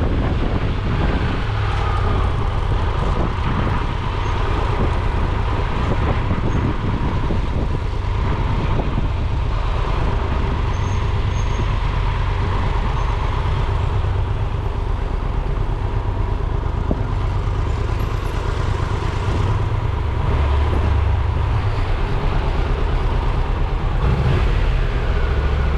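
A road vehicle running steadily: a loud low rumble with a faint steady whine above it.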